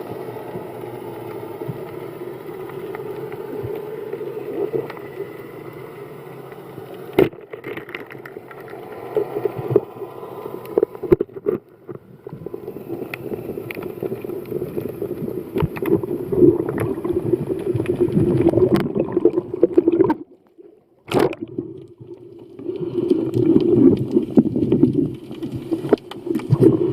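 Muffled underwater ambience on a night dive: a steady low water noise with scattered clicks and crackles, breaking off for about a second a little past two-thirds of the way through.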